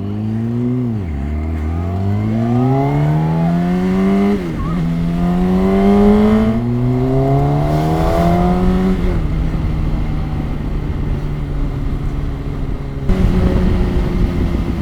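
Sportbike engine pulling away and accelerating through the gears: the revs climb and drop back at each of three upshifts, then the engine holds a steady cruise.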